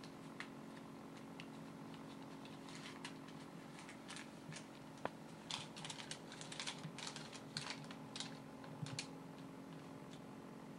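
Light, irregular clicks and rustles of small objects being handled, coming in quick clusters from a few seconds in, over a steady low hum.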